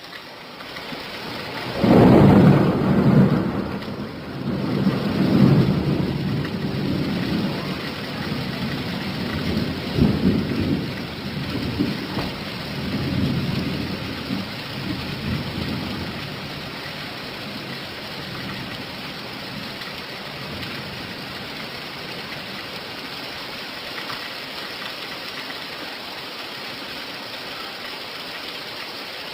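Steady rain falling, with a thunderclap about two seconds in whose rumble rolls on in several swells and dies away over the next dozen seconds, leaving only the even hiss of the rain.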